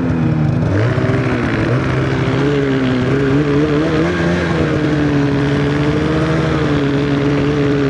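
Snowmobile engine running steadily under throttle while riding; its pitch climbs about a second in, then holds with slight wavers, over a steady rushing hiss.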